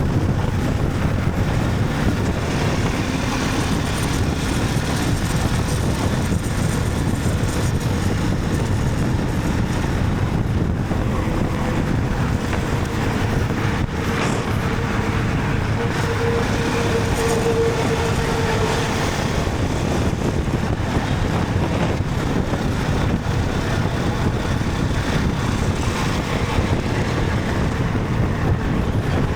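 Motorcycle riding at a steady speed: a steady rush of wind and road noise, with a faint steady tone rising out of it for several seconds around the middle.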